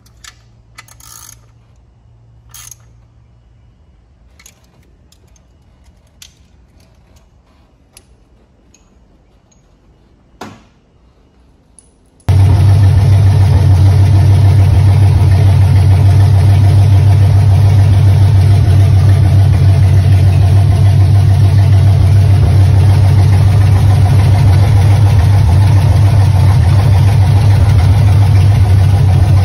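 Faint scattered clicks of hand tools working on the engine. Then, about twelve seconds in, a Chevrolet 305 small-block V8 is suddenly heard running loud and steady, with no revving.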